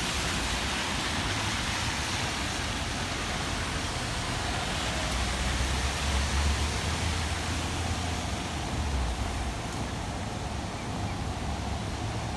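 Steady hiss of rain, with the low rumble of a passing vehicle swelling and fading near the middle.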